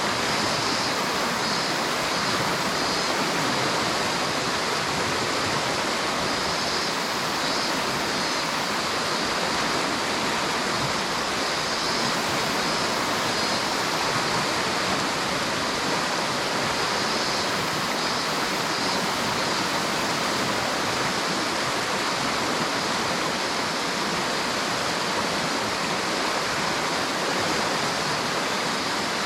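River water running steadily over rocks, an even rushing sound.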